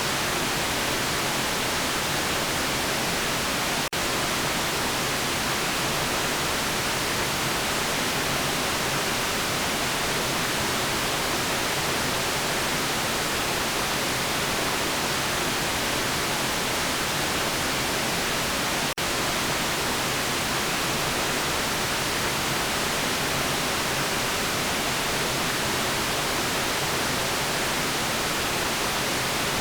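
Steady generated white noise: an even, unchanging hiss with no tones or rhythm. It dips for an instant twice, about four seconds in and again about nineteen seconds in.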